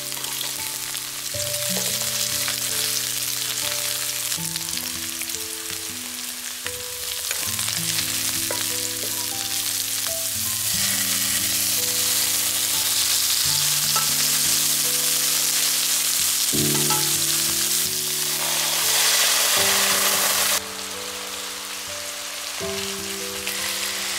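Garlic, zucchini, mushrooms and shrimp sizzling as they fry in oil in a nonstick wok. The sizzle drops abruptly to a quieter level about twenty seconds in.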